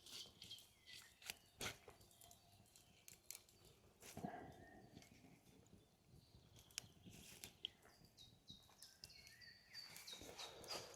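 Faint wood campfire crackling, with irregular small pops and ticks and one soft knock about four seconds in.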